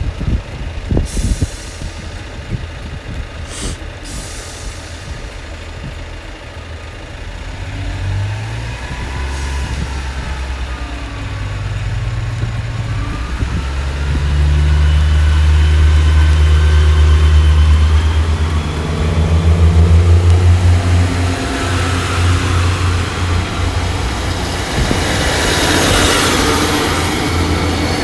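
Diesel multiple unit, with a Class 150 Sprinter at the rear, working through the station on its underfloor diesel engines. The engine note builds and is loudest about halfway through. A faint squeal comes early on, and a hiss near the end.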